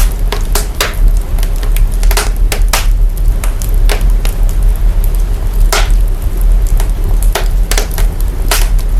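Burning fire crackling, its recording processed to boost the sub-bass: irregular sharp pops and snaps over a constant deep rumble and hiss.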